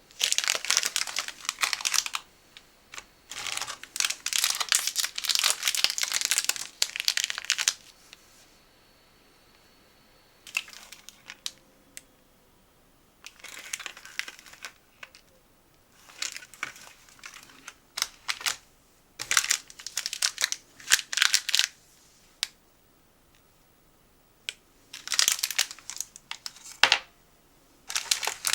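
Plastic snack packaging crinkling and rustling as it is handled and opened. The sound comes in about eight bursts of one to four seconds, with short quiet pauses between; the longest runs from about four to eight seconds in.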